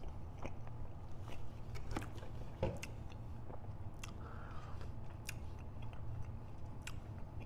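Close-miked chewing and wet mouth clicks from a man eating calzone pizza, with small smacks scattered through and one sharper smack a little before halfway. A steady low hum sits underneath.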